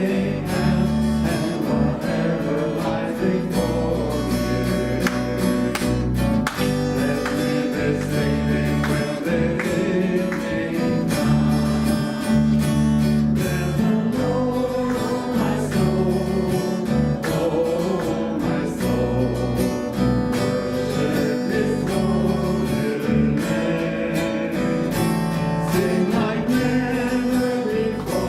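Worship song played by a band, led by a strummed acoustic guitar over a steady bass, with singing.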